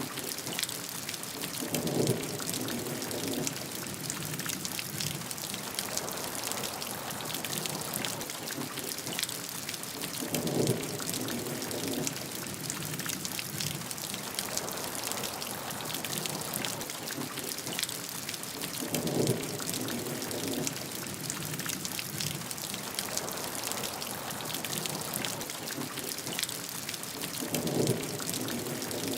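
Steady rain falling, a dense hiss with many distinct drop ticks. Four times, evenly spaced about eight and a half seconds apart, a short, deeper sound rises briefly above the rain.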